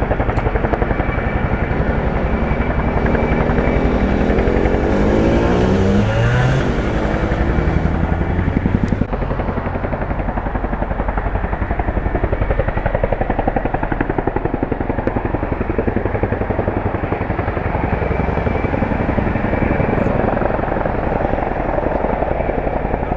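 Helicopter rotors beating in a steady, rapid chop. A whine glides down in pitch about three to six seconds in as the helicopter passes. The helicopter is taken for a Chinook.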